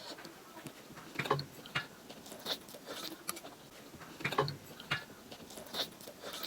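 Close-up eating sounds: a person chewing, with scattered short crunches and mouth clicks.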